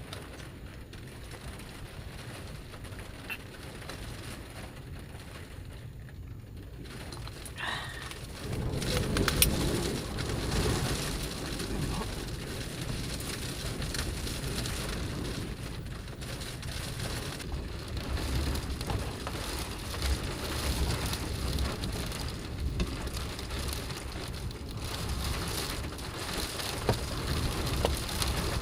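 Rain beating on the roof and body of a Subaru Sambar kei van, heard from inside. It gets clearly heavier about eight seconds in and comes and goes in gusts after that.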